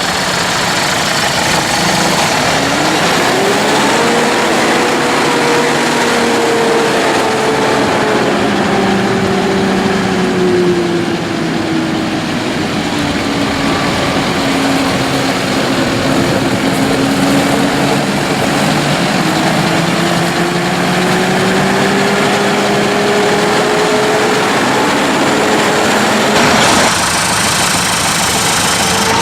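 Case IH Farmall 105C tractor's four-cylinder turbo diesel running, its engine note rising about four seconds in, slowly sagging, then climbing again later. The sound changes abruptly near the end.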